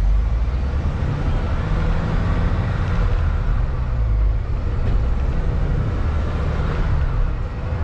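Steady drone of a semi truck's engine and tyre and road noise at highway cruising speed, heard from inside the cab.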